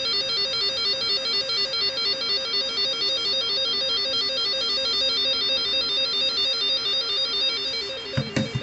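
Electronic warning alert tone warbling rapidly between two pitches several times a second. It is typical of a storm-warning alarm going off, and it stops near the end, followed by a few short knocks.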